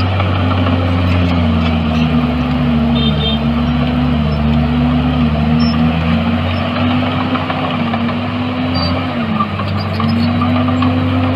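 Heavy diesel engine of earthmoving machinery running steadily. Its pitch dips and recovers a few times, dropping most noticeably about nine seconds in.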